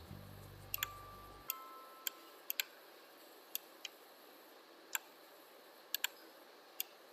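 Computer mouse clicking, a dozen or so single sharp clicks at uneven intervals, some in quick pairs, as anchor points are placed to trace a path around a shape. A low hum stops about one and a half seconds in.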